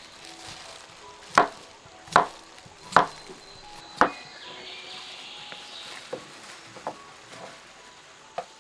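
Knife chopping on a cutting board: four sharp strokes about a second apart, then a few lighter strokes spaced more widely.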